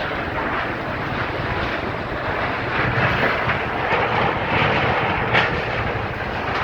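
Strong gusty wind blowing, a steady rushing noise that swells and eases, with one brief sharp tap about five seconds in.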